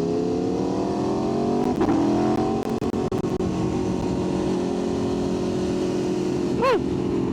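Sportbike engine pulling away, its pitch rising over the first two to three seconds and then holding steady, with one quick rev blip near the end.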